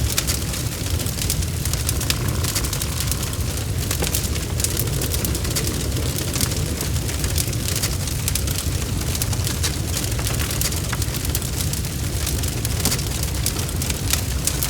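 Wood fire in a fireplace burning steadily, with a constant low rumble and many small, irregular crackles and pops.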